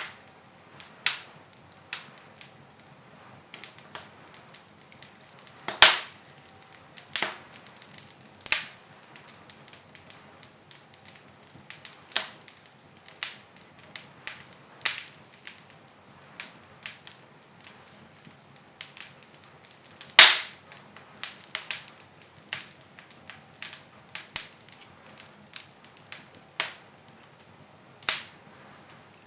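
Wood fire in a fireplace crackling, with irregular sharp pops and snaps over a low hiss; two pops, about six seconds in and about twenty seconds in, are louder than the rest.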